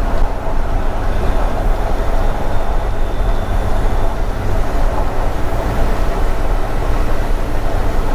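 Steady rumble of road and engine noise inside a box truck's cab cruising at highway speed, with tyres and drivetrain making an even, low-heavy drone.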